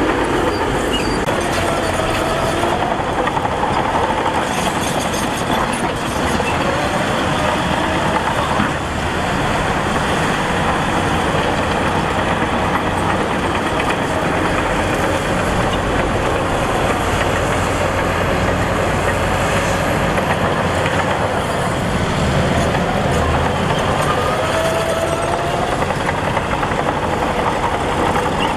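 Heavy diesel earthmoving machinery working, a steady loud engine drone with a few faint wavering squeals.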